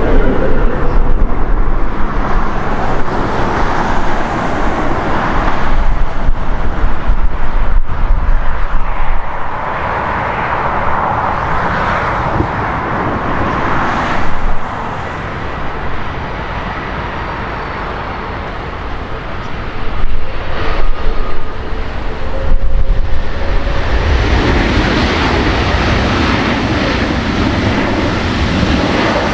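Jet airliner engines running at an airport, a continuous noise with a deep rumble that swells and eases several times.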